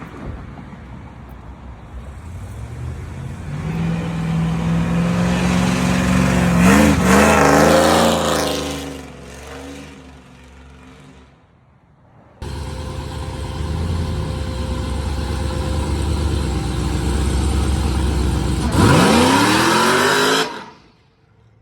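Supercharged V8 of a Chevy Trailblazer SS running and being revved. The engine note swells with a few quick revs, fades away, then cuts in again running steadily and revs up with a rising pitch before stopping abruptly near the end.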